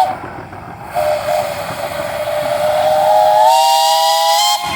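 Steam whistle on a Nichols and Shepard steam traction engine blown in one long blast, starting about a second in, rising a little in pitch toward the end and cutting off sharply just before the end. A steam hiss comes before it.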